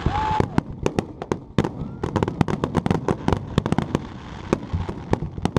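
Fireworks display: a rapid, irregular run of bangs and crackling reports from aerial shells, with a short whistle near the start.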